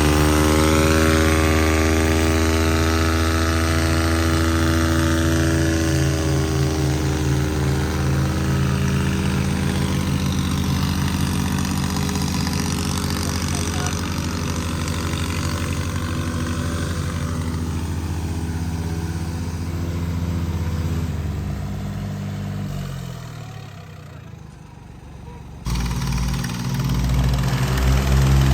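New Holland 3630 tractor diesel engines revved up hard and held at high revs under the strain of a tractor tug-of-war. Near the end the engine note drops and fades, then comes back loud suddenly.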